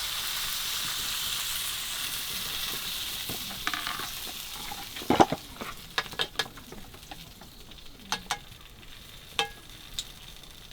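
Food sizzling in a hot pan as it is stir-fried; the sizzle dies down about halfway through. A utensil knocks and scrapes against the pan several times, loudest about five seconds in.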